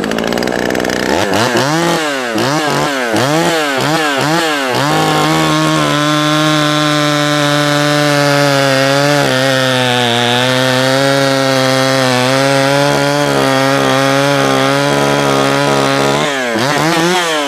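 Jonsered 525 two-stroke chainsaw running: revved up and down about six times, then held at a steady high pitch with slight wavers for about eleven seconds, then revved up and down again near the end. The owner has found it stumbling.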